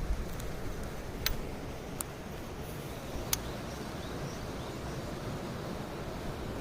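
Mountain stream rushing steadily, with three short sharp clicks about a second apart near the start.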